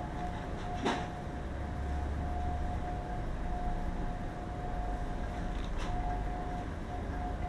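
Steady low mechanical hum with a thin steady whine over it, and one sharp click about a second in.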